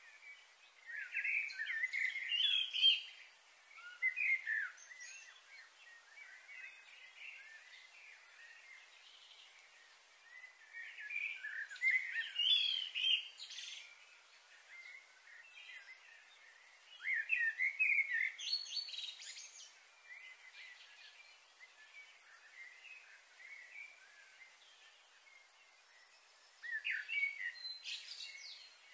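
Birds chirping and calling in four short bouts of a few seconds each, over a steady faint high hiss.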